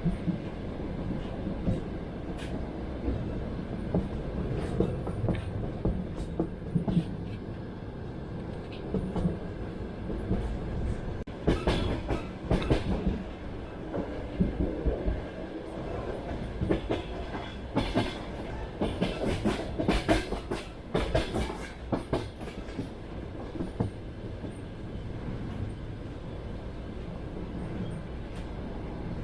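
Train wheels clacking over the rail joints under a steady rumble, heard from inside a moving carriage; two denser runs of sharp clacks and knocks come near the middle.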